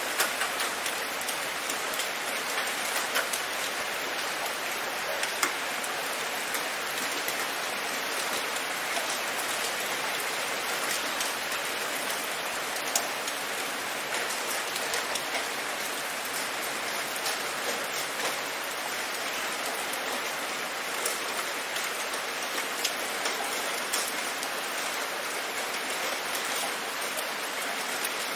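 Steady rain falling, an even hiss with scattered sharper drop ticks standing out now and then.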